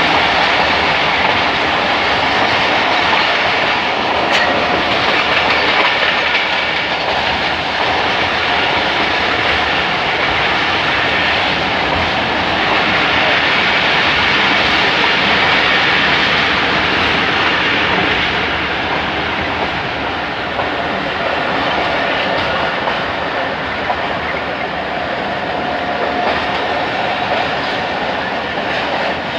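Passenger train rolling slowly over the rails, its wheels clicking over the rail joints in a steady clickety-clack. It eases off a little about two-thirds of the way through.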